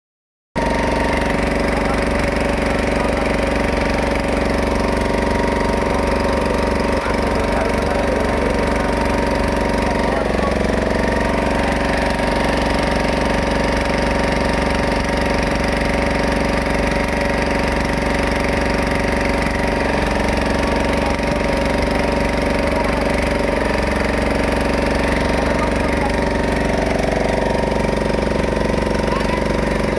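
Boat engine running steadily at an even speed, with no change in pitch.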